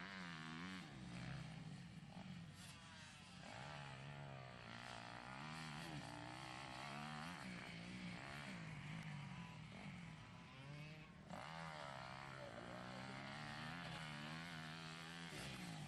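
Motocross dirt bike engines revving up and falling off over and over as they are ridden, with a brief drop about eleven seconds in.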